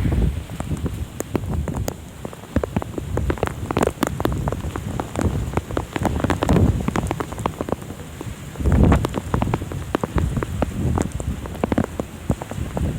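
Heavy rain, with many individual drops striking close to the microphone in sharp ticks. Low rumbling swells rise twice, about six and nine seconds in.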